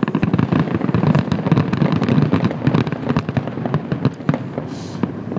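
Fireworks going off in a rapid, dense barrage of many overlapping bangs and crackles, typical of a finale, thinning out near the end.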